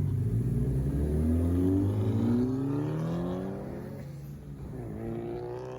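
Car engine accelerating, its pitch climbing for about two and a half seconds. Near the end it shifts gear and climbs again while fading as the car pulls away.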